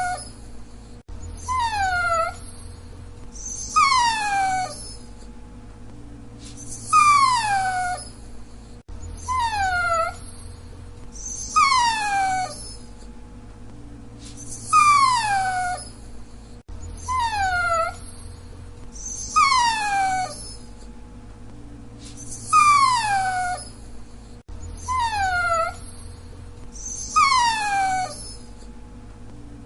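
Dachshund whining: short high whines, each sliding down in pitch, repeating about every two and a half seconds.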